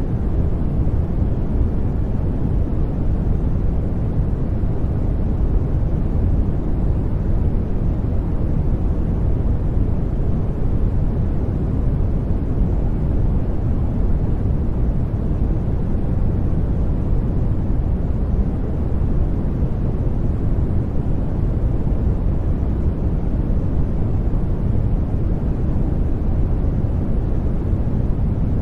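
Continuous sleep-aid noise track: an even, deep rushing hiss, strongest in the low end, holding one level without change.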